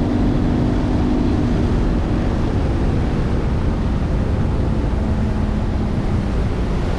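Bass boat's outboard motor running at speed. A steady engine tone lies under a loud, even rush of wind and water.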